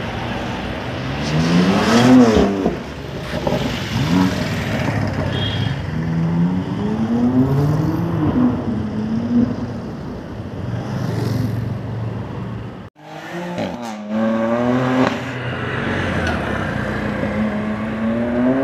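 High-performance car engines accelerating hard, the pitch climbing and dropping with each gear change, several times over. The first pull is a BMW M2 Competition's twin-turbo straight-six. The sound cuts out for a moment about two-thirds of the way through.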